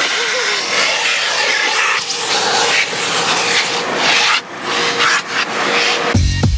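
Car wash vacuum hose sucking air as the nozzle is worked over the car's interior, a steady loud hiss that rises and dips as the nozzle moves. Music cuts in near the end.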